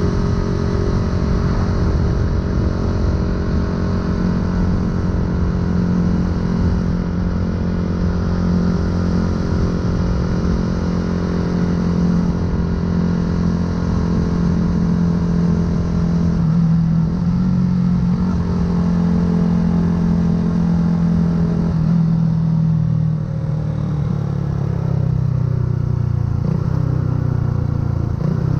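Yamaha YZF-R125's 125 cc single-cylinder four-stroke engine running through an unbranded aftermarket full exhaust while riding at a steady pace, its note holding even for most of the stretch, then wavering and dropping in pitch near the end as the revs fall.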